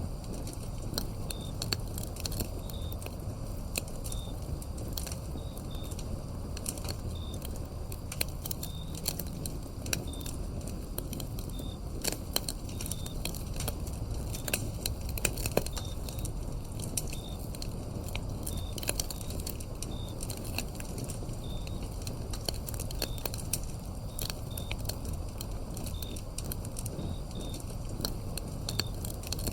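Wood fire burning with dense, irregular crackles and pops over a steady low rumble. Crickets chirp in short high notes about once or twice a second behind it.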